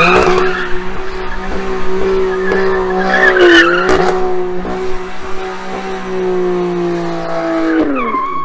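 BMW M3 Competition's twin-turbo straight-six held at steady revs while the rear tyres spin and squeal in a smoking donut, the squeal rising and wavering about halfway through. The revs drop just before the end.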